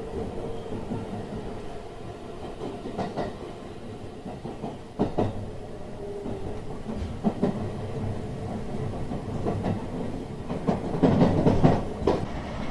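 Electric Special Rapid (Shinkaisoku) commuter train running out of the station, heard from inside the carriage: a steady rumble of wheels and running gear, with single sharp clacks every second or two as the wheels cross rail joints and switches, and a louder run of clacks near the end.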